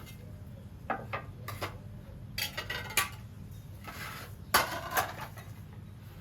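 Cookware and utensils clinking and clattering in three short bursts: a few light knocks about a second in, a quicker run of clinks around the middle, and the loudest clatter near the end.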